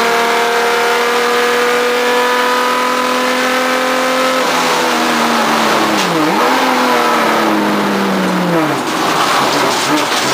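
Race car engine heard from the onboard camera, held at high revs and climbing slowly for about four and a half seconds, then dropping sharply in pitch twice with quick recoveries as the driver lifts and shifts down. Rougher noise builds near the end.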